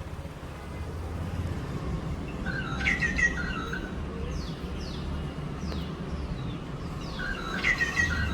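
Songbirds singing: a short warbled phrase about three seconds in, repeated near the end, with several short falling whistled notes in between, over a steady low rumble.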